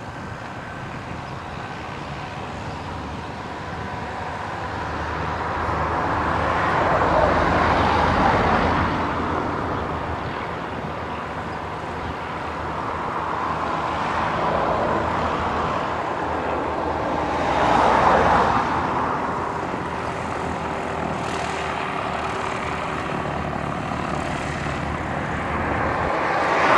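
Light propeller aircraft engine noise, swelling louder and fading as planes pass, about eight seconds in, again about eighteen seconds in, and once more at the very end.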